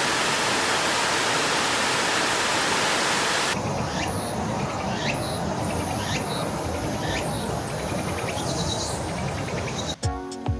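Rushing water for the first three seconds or so, then a sudden change to a softer rush of water with repeated short, downward-sweeping bird calls and a thin, high insect buzz. Music with a beat comes in near the end.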